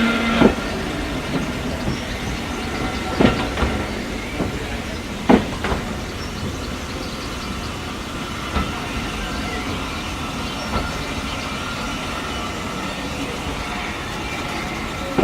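A train running on the rails: a steady rumble with a few sharp knocks, loudest about three and five seconds in.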